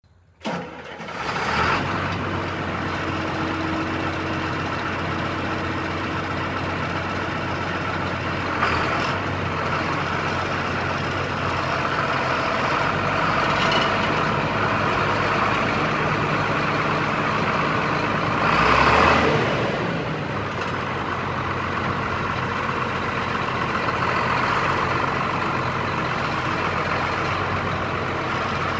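John Deere 8770 articulated four-wheel-drive tractor's diesel engine running steadily, with a single knock about a third of the way in and a brief swell in loudness about two-thirds through.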